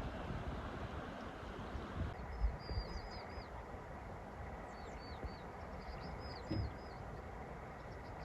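Small birds chirping in short, high, downward-curving notes, repeated in little groups from about two seconds in, over steady wind noise with a low gusty rumble.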